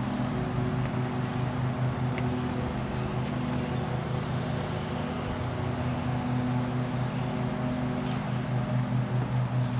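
A motor or engine running steadily with a low hum, picking up a pulsing beat near the end.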